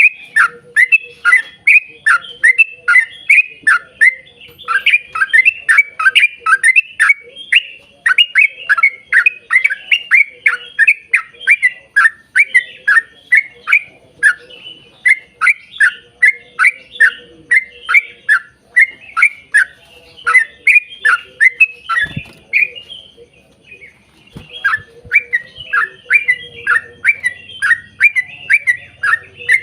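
Yellow-vented bulbul (trucukan) singing a long, fast run of short, falling chattering notes, about three to four a second. There is a brief pause roughly three-quarters of the way through.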